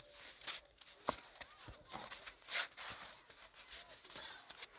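Snow being cleared with a shovel: irregular crunches and scrapes in packed snow, with a few sharper knocks and one louder scrape about two and a half seconds in.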